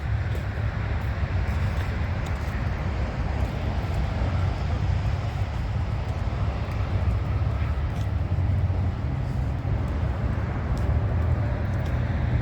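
Steady low rumble of a diesel truck engine idling.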